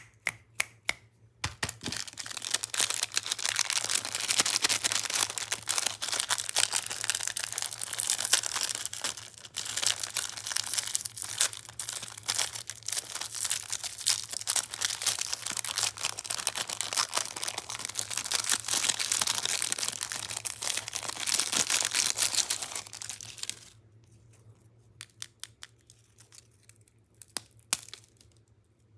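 Plastic candy wrappers crinkling and rustling continuously. Near the end the crinkling stops and scattered crisp snaps follow: wafer rolls being snapped.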